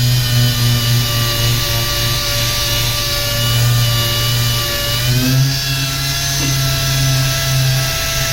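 Power sander running steadily on car paint, with a steady whine that steps up slightly in pitch about five seconds in.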